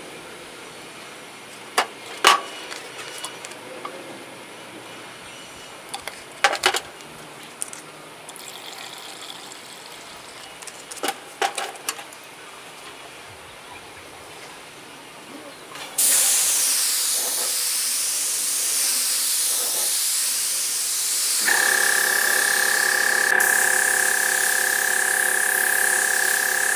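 A few sharp knocks, then about 16 seconds in a loud steady hiss starts suddenly. A few seconds later a steady high-pitched whine joins it, typical of a compressed-air or spraying tool at work.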